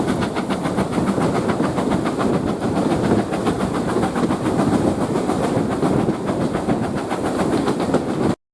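Train running on the line, with a loud, steady noise and a fast, even rhythm of clicks; it cuts off suddenly just before the end.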